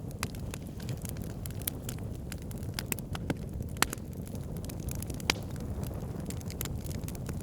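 Wood campfire crackling, with many scattered sharp pops and snaps over a steady low rush; two louder pops come a little over halfway through.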